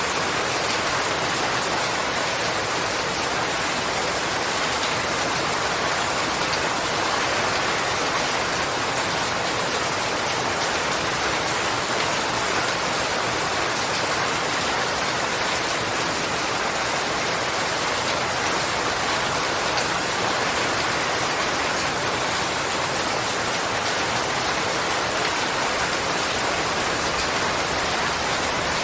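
Steady rain falling, a dense even hiss of many drops hitting a surface, with no let-up.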